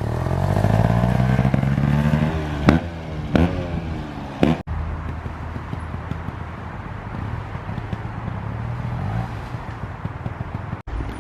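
Trials motorcycle engine revving up for about two seconds, then dropping back. A few sharp knocks follow, then the engine runs on more steadily at lower revs.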